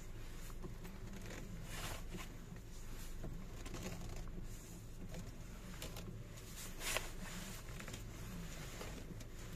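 Steering wheel of a Honda RP3 Step WGN being turned, with scattered metallic clicks and rattling knocks from inside the wheel, the loudest about two seconds and about seven seconds in. It is the rolling, clattering metal noise from the steering that the dealer traced, probably, to the horn plate.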